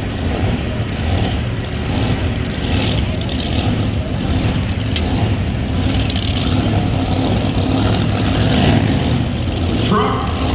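High-horsepower competition pulling engine running loud and steady, a dense wall of unmuffled exhaust noise with no breaks.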